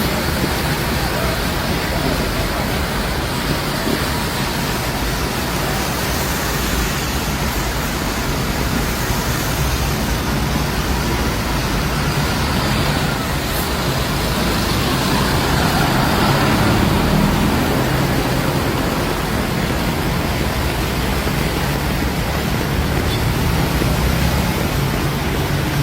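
Steady rushing noise of heavy rain and road traffic on a flooded street, swelling a little past the middle.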